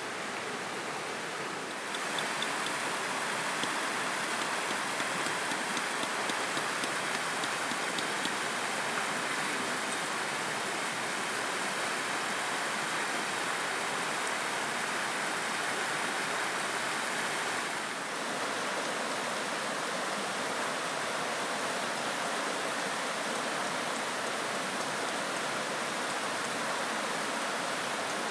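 Steady rush of flowing river water, an even noise that steps a little louder about two seconds in and dips slightly near the two-thirds mark.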